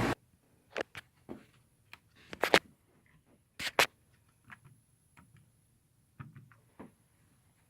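Scattered short clicks and knocks, about a dozen at irregular intervals, with near silence between them and no running air-conditioner noise.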